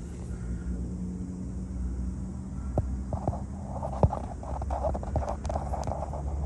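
2006 Ford Ranger's engine idling steadily, with a few sharp clicks and knocks over it.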